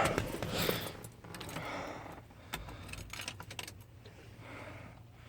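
Keys jangling, with scattered small clicks and rattles and a louder knock or rustle right at the start.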